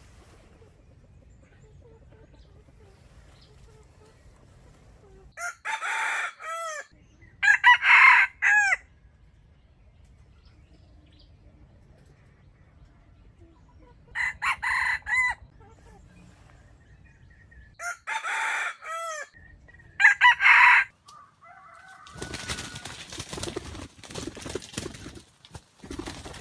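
A wild rooster crowing about five times, in spaced bouts, then a few seconds of rustling and scuffling near the end.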